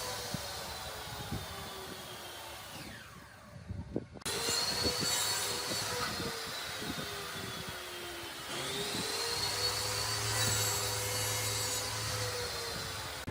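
Electric power tool motor running with a steady whine. It winds down and stops about three seconds in, then starts again abruptly about a second later. Its pitch slowly sags, as under load, and rises again about eight and a half seconds in.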